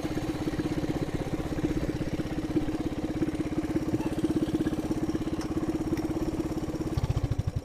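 Coleman BT200X mini bike's single-cylinder engine, straight-piped, idling steadily with an even chug. About seven seconds in it goes louder briefly, then its firing slows and starts to die away as it shuts down.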